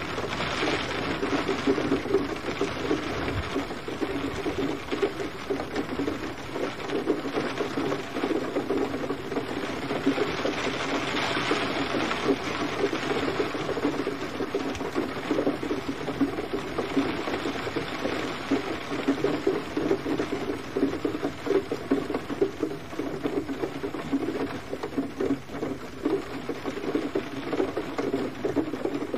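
Gentle rain falling steadily, a dense, even patter of drops on a surface.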